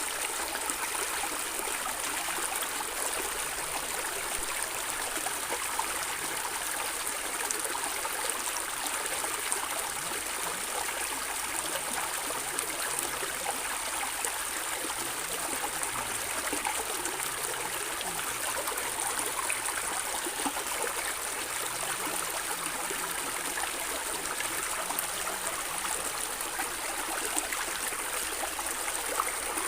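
A stream running steadily, its water gurgling and trickling over stones with many small splashes.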